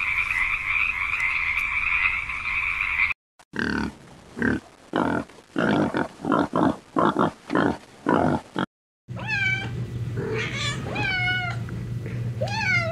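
A steady high-pitched chorus for about three seconds, then a run of about a dozen short piglet squeals, then a domestic cat meowing about four times, each meow rising and falling in pitch, over a low steady hum.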